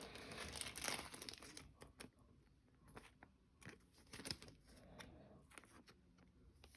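Faint crinkling and tearing of a foil trading-card pack wrapper for the first second and a half or so. After that, mostly quiet, with scattered light clicks of cards being handled.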